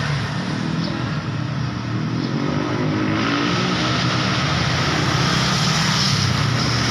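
Busy road traffic: engines of passing vehicles running steadily, with an engine note climbing between about one and three seconds in.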